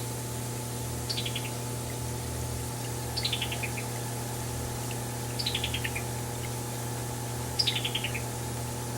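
Summer tanager calling: a quick staccato run of five or six clipped notes that fall in pitch, given four times about two seconds apart.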